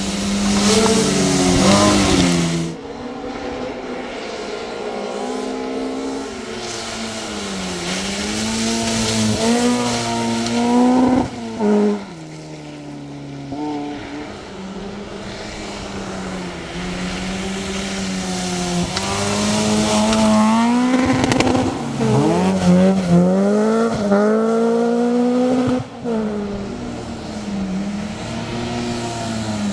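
Mk2 Ford Escort rally car with a 2.0-litre Toyota Beams engine driven hard on a stage: the engine revs rise and fall through repeated gear changes. It briefly lifts off about 11 seconds in and again near 26 seconds, with bursts of tyre noise over the engine.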